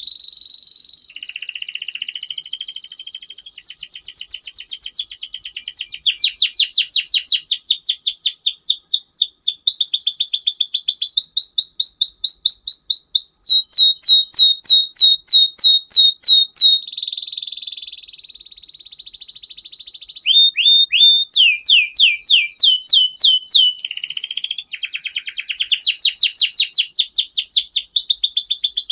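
Domestic canary singing a long, continuous song of rapid trills, each a run of quickly repeated notes, with a steady held whistle about 17 seconds in and a brief pause near 20 seconds.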